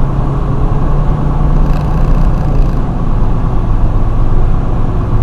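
Steady drone of a semi-truck's diesel engine and road noise heard inside the cab while driving.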